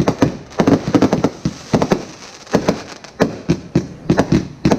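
Aerial fireworks bursting overhead: a fast, irregular string of sharp bangs, several a second.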